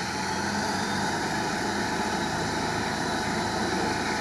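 Stock UAZ off-roader's engine running with a steady drone as it wades through a flooded track.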